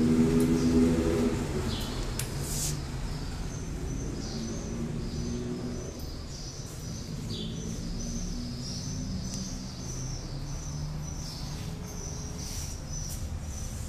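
Small birds chirping over and over in short high notes above a steady low hum.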